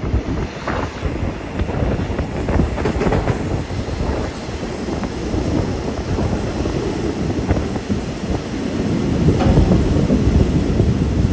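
Passenger train running along the track, its wheels clattering over the rails with many short clacks; the clatter grows louder near the end.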